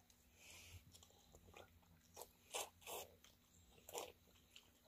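Faint chewing and biting of peeled rambutan: scattered short, wet mouth clicks and smacks.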